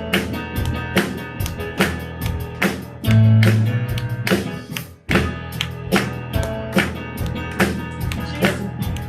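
Band playing an instrumental break in an upbeat praise song, with guitar and bass under a steady sharp beat about two and a half times a second, the congregation clapping along. A loud low bass note swells about three seconds in and cuts off suddenly about five seconds in.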